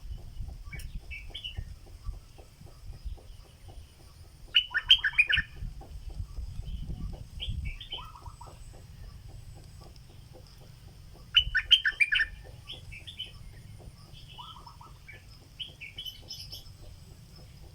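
Caged stripe-throated bulbul, a decoy bird, singing: loud bursts of quick bubbly notes about five seconds in and again about twelve seconds in, with shorter, quieter phrases between.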